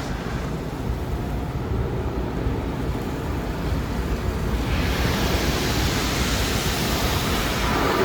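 Car wash tunnel heard from inside the car: a steady low rumble of the conveyor and wash equipment, then about five seconds in a loud hiss of water spray hitting the car starts and keeps on.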